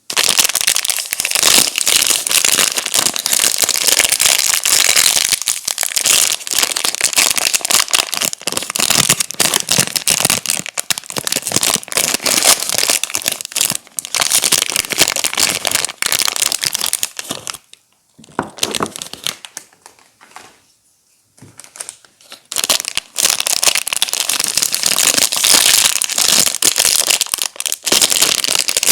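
Soap packaging being unwrapped and crumpled by hand: dense crinkling and crackling that stops briefly twice about two-thirds of the way through.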